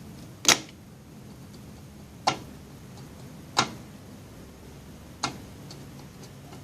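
Four sharp clicks, a second or two apart, over a faint steady background hum.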